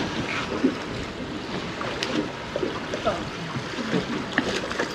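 Water sloshing and splashing against the side of a small boat as a large fish is worked into a landing net, with scattered light knocks.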